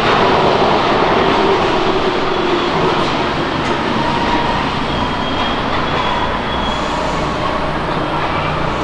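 Paris Métro train running, a dense steady noise of the train on its rails.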